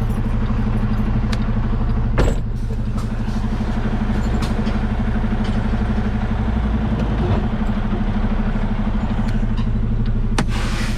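Semi truck's diesel engine running steadily at low revs as the tractor backs slowly under a trailer to close the gap at the fifth wheel. A sharp knock sounds about two seconds in, and another near the end.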